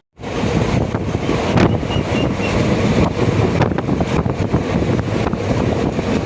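Passenger train running, heard from on board: a steady rumble of the moving train with wind buffeting the microphone.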